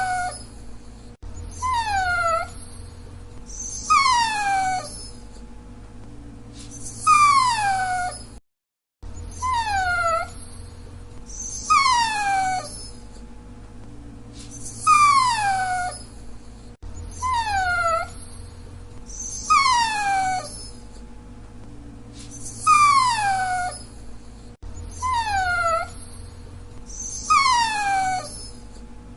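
Dachshund whining: a string of high, falling whines, each about half a second long, coming roughly every two to three seconds over a steady low hum.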